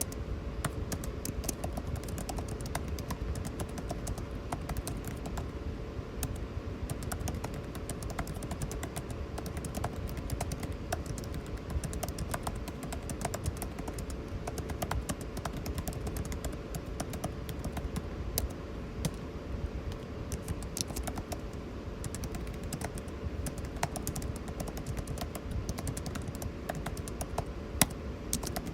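Continuous typing on a computer keyboard, many irregular key clicks, over the steady hum of air conditioning.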